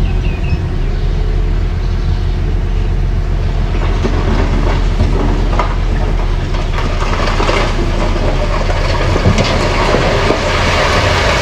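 Mini bulldozer running: a steady diesel engine hum with the clanking rattle of steel crawler tracks, the clatter getting busier about halfway through.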